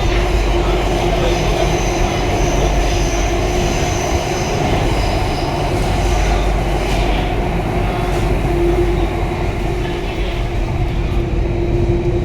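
Circle Line metro train running between stations, heard from inside the carriage: steady rumbling running noise with a constant motor hum and a faint high whine.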